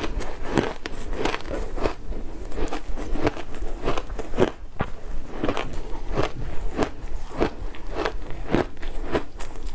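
Frozen matcha powdered ice being bitten and chewed: a steady run of crunches, about two a second.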